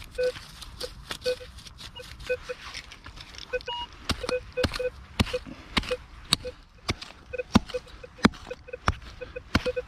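Minelab Vanquish 440 metal detector giving short, low beeps again and again as its coil is swept, mixed with sharp knocks.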